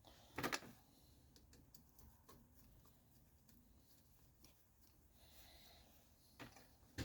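Faint clicks and light knocks of small metal engine parts being handled, with a sharper knock just after the start and another near the end.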